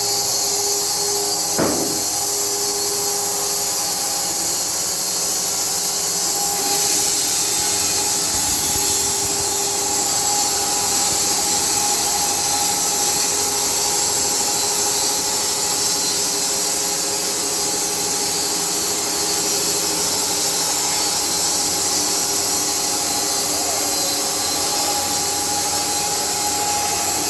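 SMFA 1000 automatic sawmill's blade cutting steadily through a wet beech log, a continuous sawing noise over the steady hum of the machine's motors.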